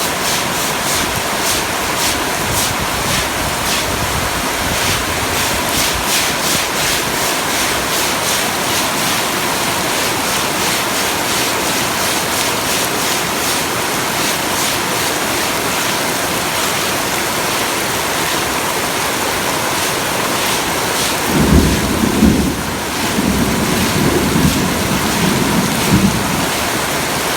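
Heavy typhoon rain pouring down steadily, a dense hiss with no let-up. A few loud low rumbles come in the last several seconds.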